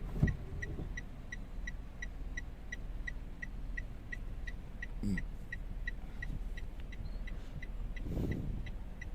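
Toyota Wigo's three-cylinder engine running at idle with a steady low rumble while it misfires on cylinder 1, a fault put down to a bad ignition coil. A light, even ticking about three times a second runs over it.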